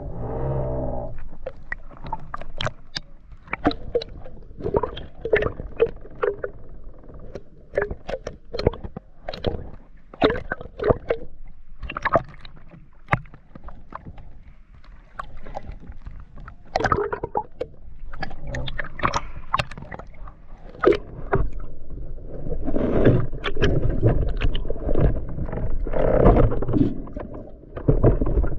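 Water gurgling and sloshing with many sharp clicks and knocks, growing heavier and rumblier near the end.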